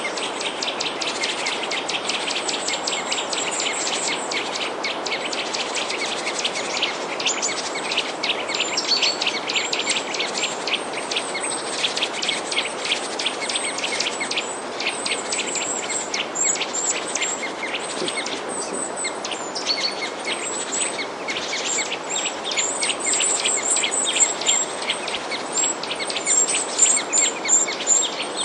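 A chorus of small songbirds chirping and twittering, a dense run of quick high chirps with short sharper calls on top, over a steady background hiss.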